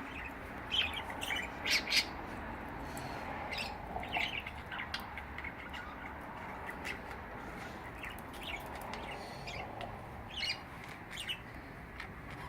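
Budgerigars chattering: many short, quick chirps and squawks, over a steady background hiss.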